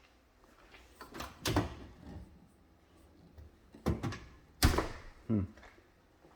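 A door being opened and shut, a series of about four clunks and knocks; the loudest comes about two-thirds of the way through.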